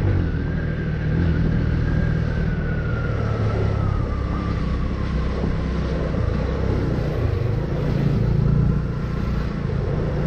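Vehicle engines and road noise of slow, heavy traffic, a steady low rumble, with a thin whine that slowly falls in pitch over the first few seconds.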